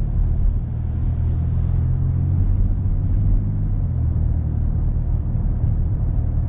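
BMW X5 30d's inline-six diesel engine heard inside the cabin in Sport mode, its actively enhanced engine sound making a low, steady booming drone.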